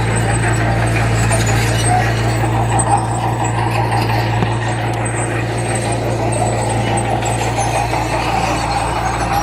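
Heavy construction machine's diesel engine running steadily, a constant low hum with mechanical noise over it.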